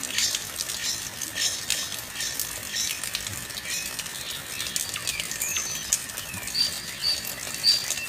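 Small birds chirping with many short, high calls. A thin whistled note comes about five seconds in, and a run of short, evenly repeated high notes comes near the end.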